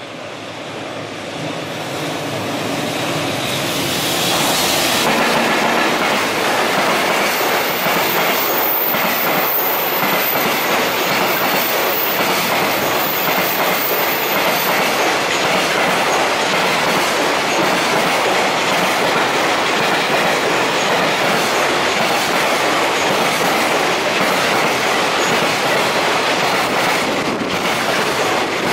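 Electric locomotive-hauled container freight train approaching and passing close by. It grows louder over the first few seconds as the locomotive arrives, then gives a steady, loud rolling noise as the long line of container wagons runs past.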